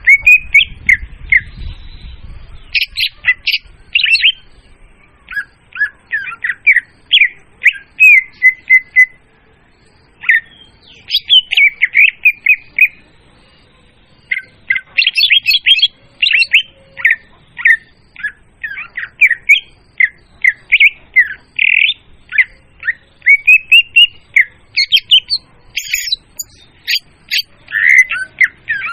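Leafbird (murai daun) song played loud as a bird-catching lure: long runs of quick, varied chirps and whistled notes, broken by short pauses about ten and thirteen seconds in.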